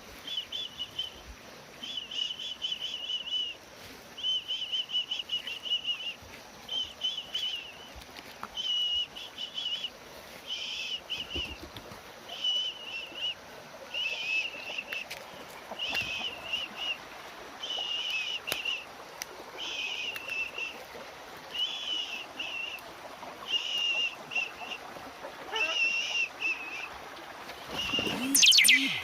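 A bird calling over and over in short trilled phrases, about one a second, with a louder sweeping call near the end.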